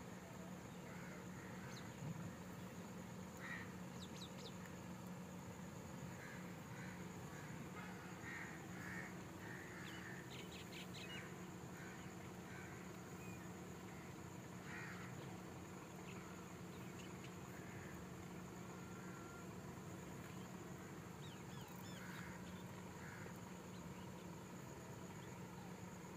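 Birds calling in short calls that come in scattered clusters, over a faint steady low hum.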